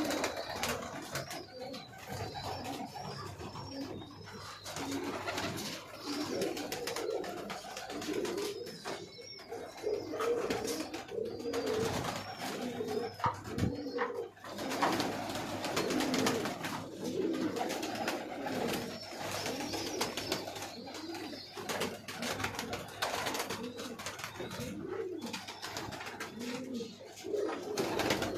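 Several domestic pigeons cooing together in an enclosed loft, with overlapping low calls and scattered clicks and rustles.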